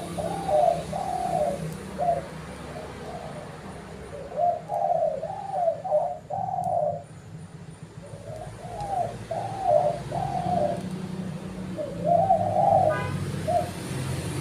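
Spotted dove cooing: four cooing phrases, each a quick run of several notes, repeated about every four seconds over a steady low background hum.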